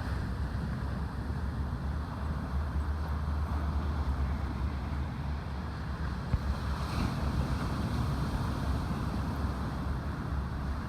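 Wind buffeting the microphone with a steady low rumble, over the wash of ocean surf, with a brief brighter hiss about seven seconds in.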